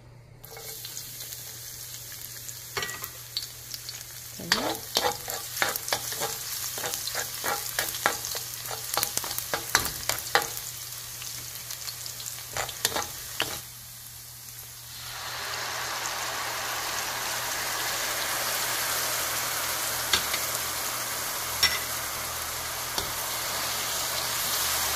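Chopped garlic sizzling in hot oil in a wok, with repeated sharp knocks and scrapes of a stirring spoon against the pan through the first half. About 15 s in the sizzle swells louder and fuller as a dark seasoning sauce goes into the hot wok and is stirred.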